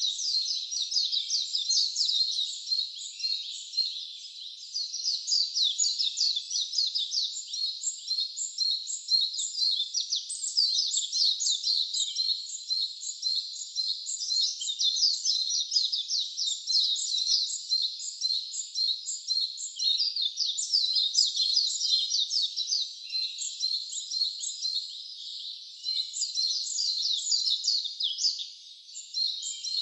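Wild songbirds singing in a dense, continuous chorus of quick, high, repeated chirps, with short lulls a few seconds in and near the end.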